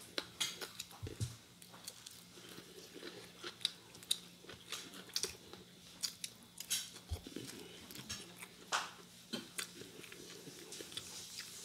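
A person chewing and biting into roast chicken eaten by hand, with many irregular sharp crackly clicks from the bites and chews.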